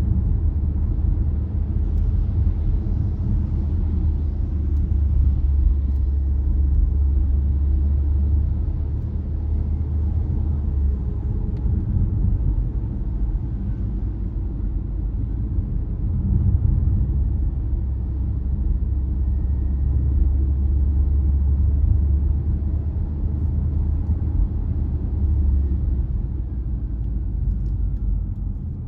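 Car driving on the road: a steady low rumble of engine and tyre noise that eases a little about eleven seconds in and again near the end.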